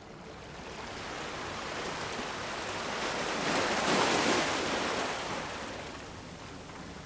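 Sea surf on a rocky shore: the wash of the water swells to a peak about halfway through, then eases off.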